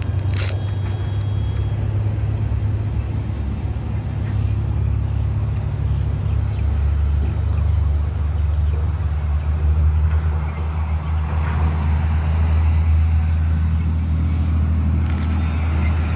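Cessna 182 engine and propeller running steadily in flight, a constant low drone, with a single sharp click about half a second in.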